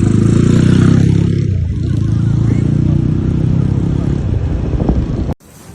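Motorcycle with a loud aftermarket exhaust running with a rapid, throbbing exhaust note. It cuts off suddenly near the end, leaving a much quieter background.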